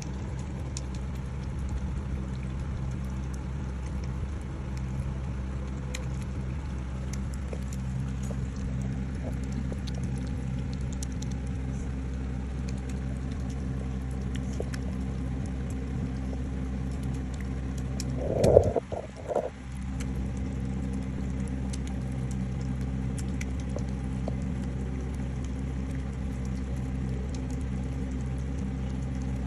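Domestic cat purring steadily and loudly close to the microphone. About two-thirds of the way through, a brief louder sound interrupts the purr for a second or so.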